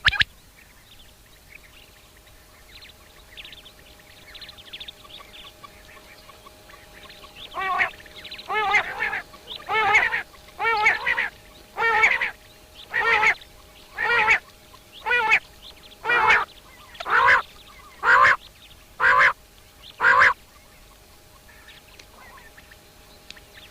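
A bird calling in a steady series of about thirteen loud, rich-toned calls, roughly one a second, after a few seconds of faint high chirping. A faint steady hum runs underneath.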